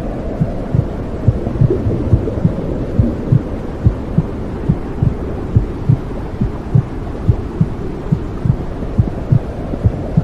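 Womb-sound white noise for calming a baby: a steady low, muffled rushing hum with a regular heartbeat thumping through it.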